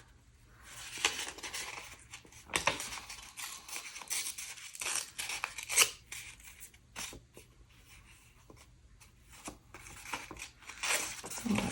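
Gel-printed paper being handled and torn by hand: irregular rustling, ripping strokes with a few sharp clicks, quieter for a few seconds past the middle.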